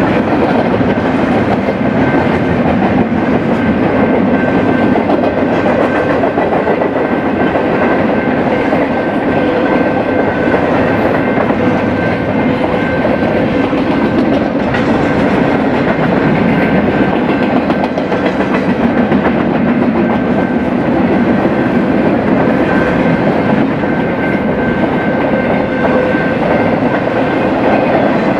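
BNSF freight train cars rolling past, a steady rumble of steel wheels on rail with clickety-clack from the rail joints. A thin steady whine runs through it.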